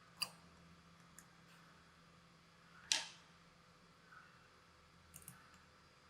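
A few sharp clicks or taps over faint room tone. The loudest comes about three seconds in, and fainter ticks follow near the end.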